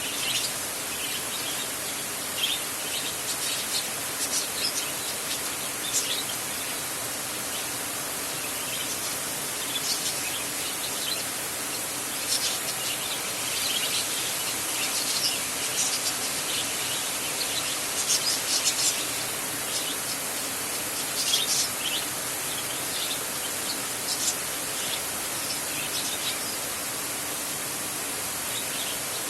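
Steady rain on a metal roof, an even hiss, with many short, high chirps scattered through it.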